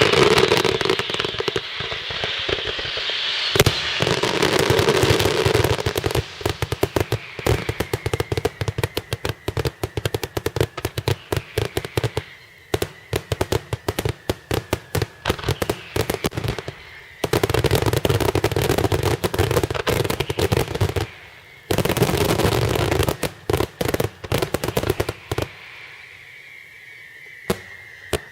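Daytime fireworks: long strings of firecrackers going off in rapid, dense volleys of sharp reports. The volleys break off about a third of the way in and again past two thirds, then thin out to scattered single bangs near the end.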